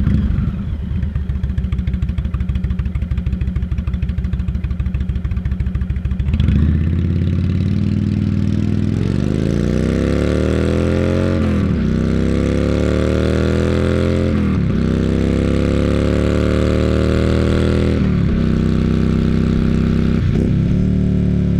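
An all-new Indian motorcycle V-twin engine starting up abruptly and idling with a fast, even pulse for about six seconds, then being revved: its pitch climbs and drops back three times, with a short blip near the end.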